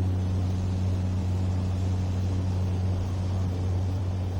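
Propeller aircraft engines running steadily, an even low hum with a fainter tone an octave above it.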